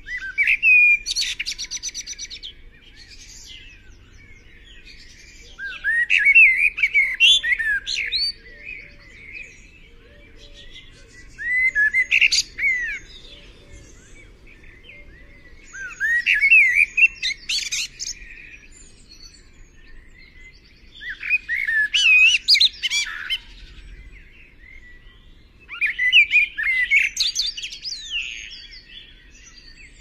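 A bird calling in six short bouts of chirps and gliding whistled notes, one about every five seconds.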